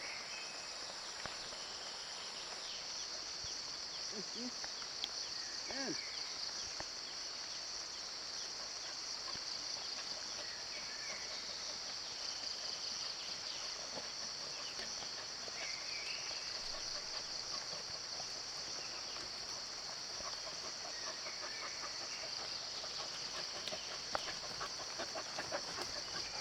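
Crickets and other insects trilling in a steady high-pitched chorus, with a few faint short calls over it.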